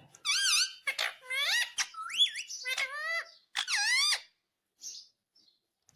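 Indian ringneck parakeet chattering in a quick run of high, squeaky, warbling whistles and chirps that swoop up and down in pitch, falling quiet a little past four seconds apart from one faint chirp.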